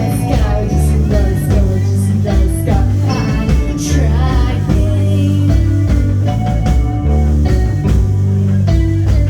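Live rock band playing loudly: steady bass notes under regular drum hits, with electric guitar and a wavering lead line, in a psychedelic rock style.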